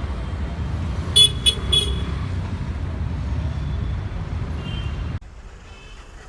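Street traffic rumbling, with a vehicle horn tooted three quick times about a second in. The traffic noise cuts off abruptly near the end.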